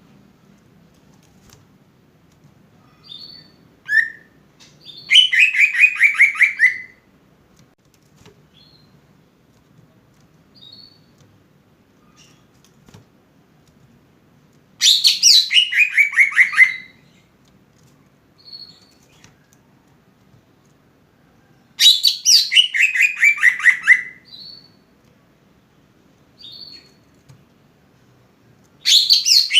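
Cucak ijo (green leafbird) singing: loud phrases of rapid, evenly repeated notes that fall in pitch, each lasting about two seconds and coming three times, with short high chirps in the pauses and a fourth phrase starting at the very end.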